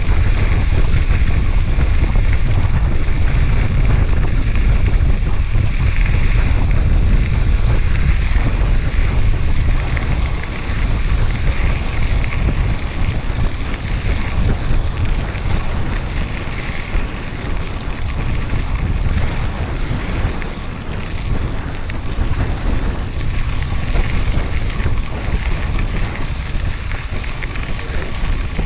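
Wind buffeting the camera microphone while cycling: a loud, steady low rumble with a rushing hiss over it, easing slightly after about ten seconds.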